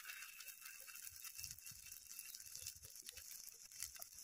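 Faint, steady sizzling and crackling of oil around noodle-batter fritters frying on a tawa, with a few soft low thuds in the middle.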